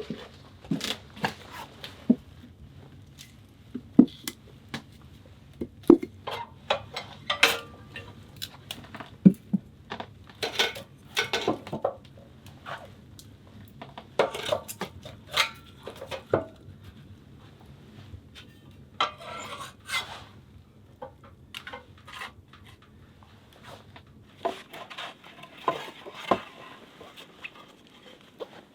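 Irregular clinks, knocks and rattles of hard objects being handled, some with a metallic ring like dishes or utensils.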